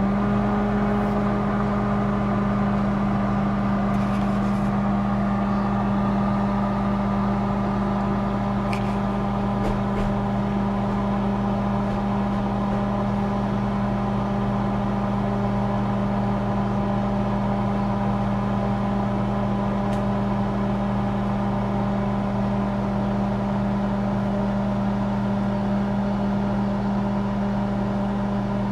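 Microwave oven running: a steady hum and whir with a few faint ticks.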